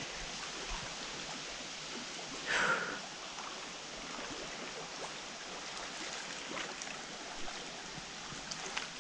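Small waves lapping on a lake shore: a steady soft wash of water, with one louder rush about two and a half seconds in.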